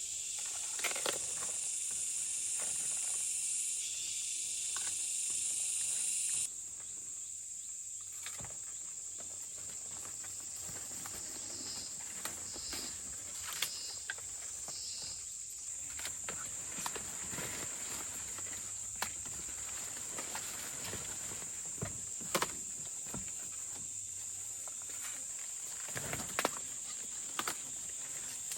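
Steady high-pitched drone of forest insects, louder for the first six seconds and then dropping off suddenly. Scattered crackles and rustles run through it, and four short high chirps come about twelve to fifteen seconds in.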